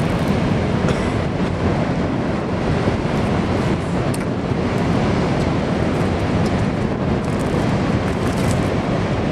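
A string of freight hopper cars rolling past on the rails, a steady rumble.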